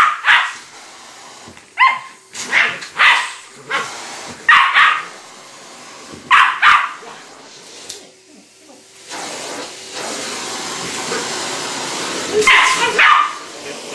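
West Highland white terrier barking at a vacuum cleaner in short single barks, several in the first seven seconds and two more near the end. About nine seconds in, the vacuum cleaner starts and runs steadily under the barking.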